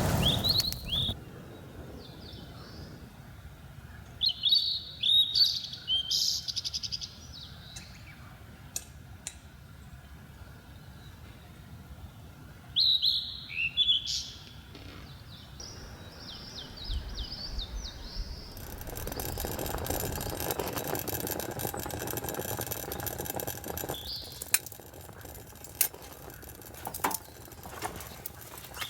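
Wild birds chirping: several bursts of quick, high chirping calls, busiest about four to seven seconds in and again around thirteen to fifteen seconds in. From about two-thirds of the way through, a steady rushing noise with a few sharp cracks comes in underneath.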